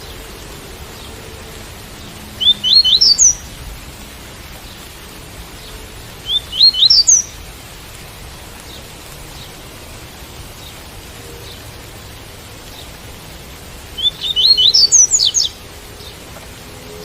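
Double-collared seedeater (coleiro) singing three short phrases of the tui-tui song type, each a quick run of high rising notes, over a steady hiss of rain.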